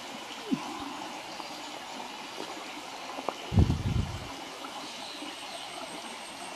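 Wood campfire burning with a steady hiss and a few sharp crackles and pops. About three and a half seconds in there is a brief, loud low thump.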